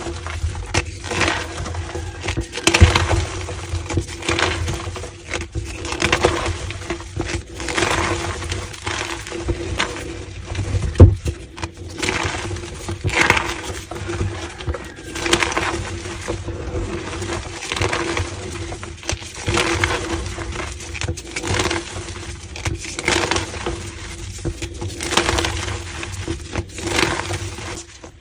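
Blocks of gym chalk being crushed, a continuous run of irregular crisp crunches and crumbles, with one sharp crack about eleven seconds in.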